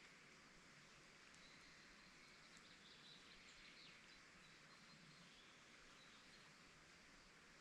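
Faint bird chirps, a few short high calls in the middle, over a near-silent steady hiss.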